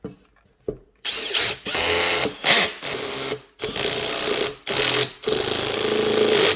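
Makita 18V brushless cordless drill driving a 60 mm screw into timber on its lowest clutch (torque) setting, run in a series of short trigger bursts with brief pauses between them.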